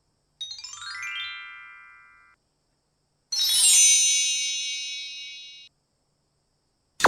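Short electronic chime sound effects separated by silence. The first is a falling run of tones that settles and holds, about half a second in. A bright shimmering chime follows about three seconds in, and another starts right at the end. Each cuts off abruptly.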